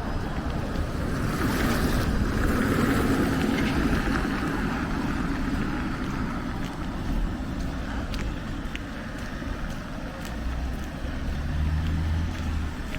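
Street traffic: a passing vehicle's tyre and engine noise swells and fades over a few seconds. Near the end a low engine hum from another vehicle comes in.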